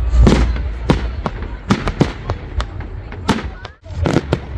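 Fireworks going off: a quick, uneven series of sharp bangs and cracks, about a dozen in all.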